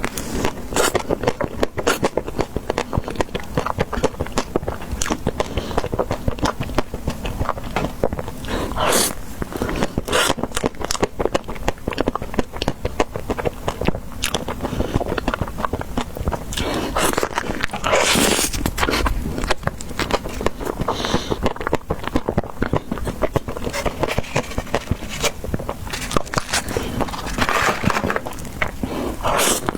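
Close-miked eating: biting and chewing ice cream dessert, with dense crackling and wet mouth sounds throughout and louder bites about 9 s in, around 18 s, and near the end.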